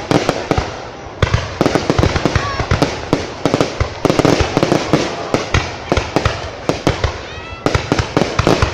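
Fireworks display: a dense, irregular barrage of sharp bangs and crackles. A rising whistle from a shell going up is heard twice, once near the first third and once near the end.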